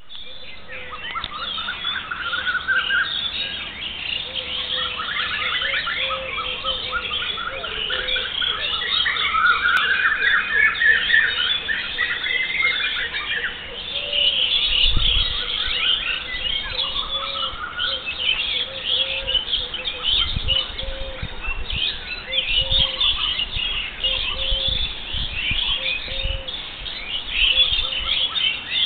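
A chorus of many village birds singing and calling at once, with dense, overlapping chirps and trills throughout. A lower, short call repeats every second or so underneath, and there are a few low rumbles in the second half.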